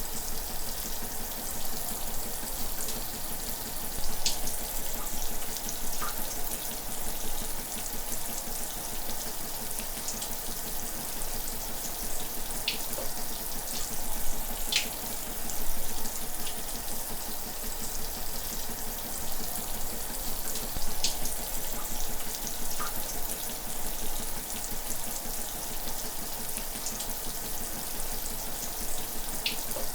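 Shower running steadily: a continuous hiss of falling spray, with a few brief sharp ticks of water now and then.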